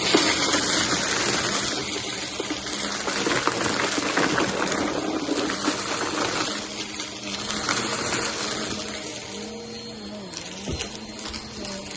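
Helix vacuum cleaner running over carpet, a steady motor hum under rushing airflow, with scattered crackles as it sucks up crunchy cereal debris. The hum dips in pitch briefly near the end.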